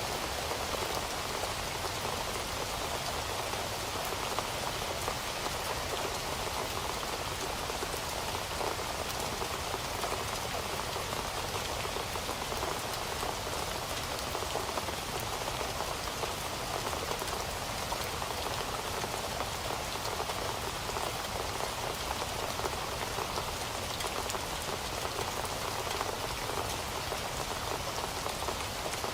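Heavy rain falling steadily, a dense, even hiss of many drops striking a surface with no change in intensity.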